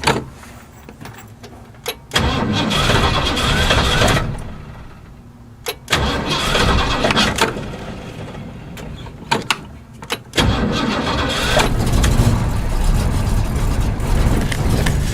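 1978 Ford Bronco's V8 engine being cold-started after sitting for months: three tries, about two, six and ten seconds in. The first two die out after two to four seconds and the last keeps running. Sharp clicks come between the tries.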